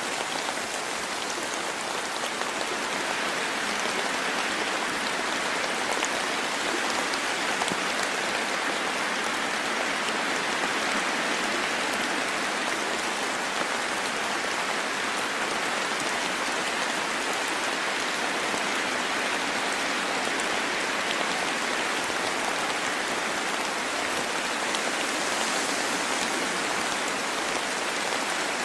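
Steady rain falling in a forest: an even hiss of rainfall with many fine ticks of single drops.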